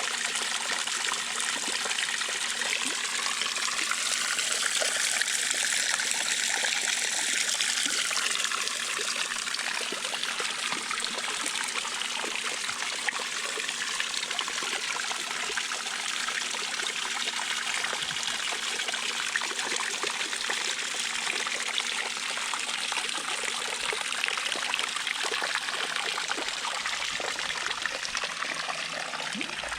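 Water from an Intex 28089 pool waterfall fountain falling and splashing in a steady, continuous stream.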